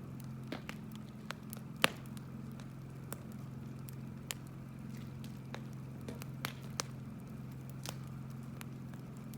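Firewood bonfire crackling, with irregular sharp pops, the loudest about two seconds in, over a steady low hum.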